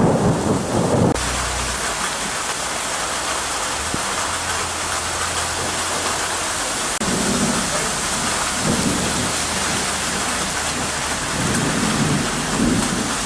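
Thunderstorm: a rumble of thunder dies away about a second in, leaving heavy rain pouring down in a steady hiss. Softer low rumbles come and go in the second half.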